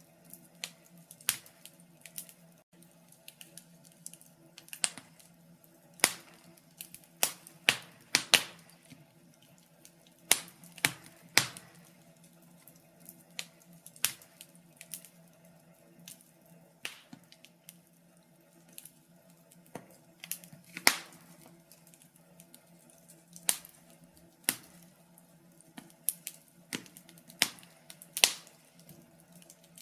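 Wood fire in a fireplace crackling: irregular sharp pops and snaps, about one or two a second, over a faint steady low hum.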